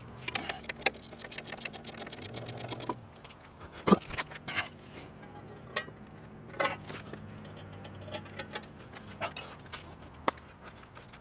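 Ratchet wrench clicking rapidly and evenly for about three seconds as an exhaust's bolts are tightened back on, followed by scattered metal clinks and knocks from the tool and parts, the loudest a sharp knock about four seconds in.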